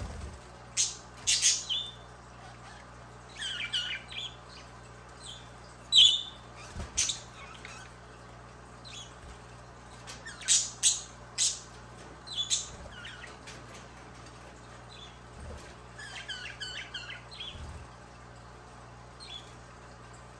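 Budgerigar chirping and squawking in short, scattered high calls, with a few quick runs of chattering notes.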